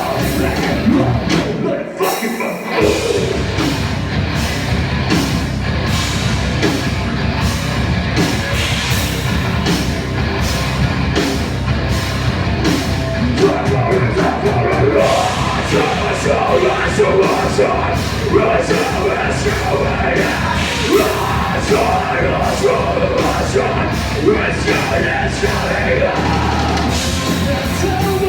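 Rock band playing heavy, metal-style music live, with yelled vocals. The music stops briefly about two seconds in, then carries on loud.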